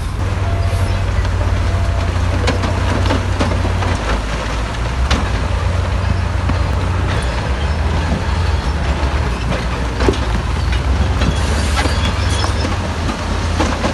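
Heavy diesel earthmoving machinery running under load with a steady low rumble, with scattered knocks and clanks of metal and rock throughout.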